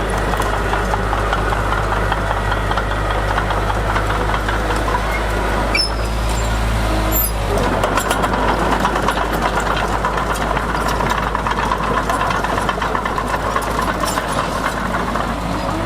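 Diesel engine of heavy earthmoving machinery running steadily and loudly, its sound shifting about halfway through.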